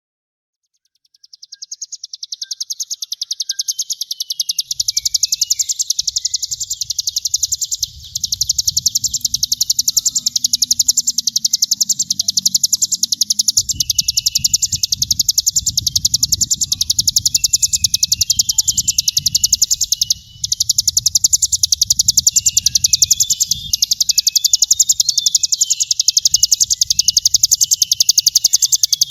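Crimson sunbird (sogon) singing a continuous, very rapid, high-pitched buzzing rattle, the 'brem' trill prized in song-training recordings. It fades in about a second in, breaks off briefly twice, and has a faint low rumble under it.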